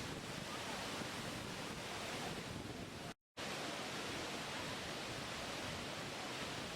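Steady rush of falling or surging water, an even hiss with no distinct events. It cuts out completely for a split second about halfway through, then resumes unchanged.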